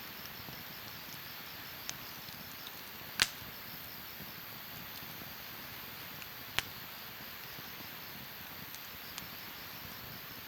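Wood fire burning in a Snow Peak fire stand: a steady soft hiss with a few sharp pops, the loudest about three seconds in and another a little past six seconds.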